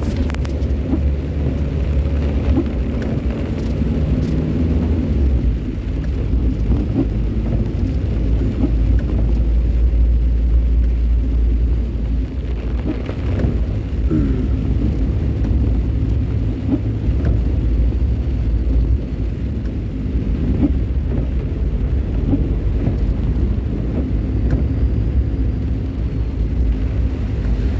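A road vehicle driving, a steady low engine and road rumble that keeps on without a break, with faint scattered ticks over it.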